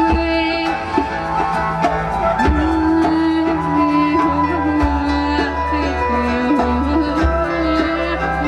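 Folk-rock band playing live, an instrumental passage: a held, wavering lead melody over drums, bass and guitar.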